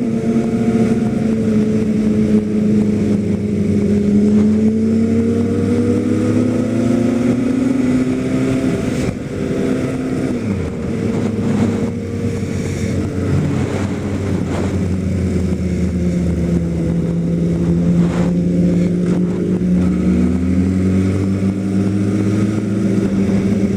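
Kawasaki ZX-10R sport bike's inline-four engine running while riding, with a steady note that drops as the bike slows about ten seconds in, then holds and rises a little near the end.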